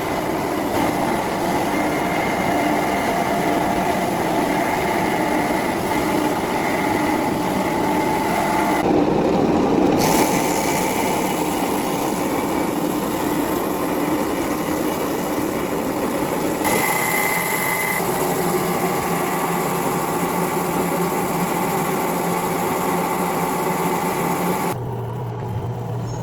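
Factory machinery running steadily, a dense mechanical hum with whining tones, changing abruptly several times as the shots cut.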